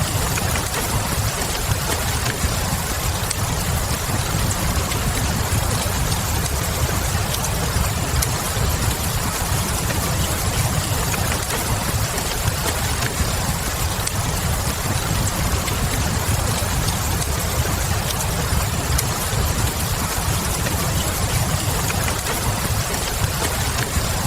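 Steady rain hiss over a low, even rumble, with light fireplace crackle in it: a mixed rain-and-fireplace ambience.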